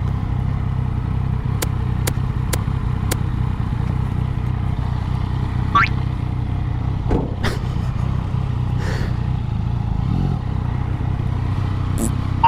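Motorcycle engine running steadily. A few light clicks come in the first few seconds, and a short rising chirp about six seconds in.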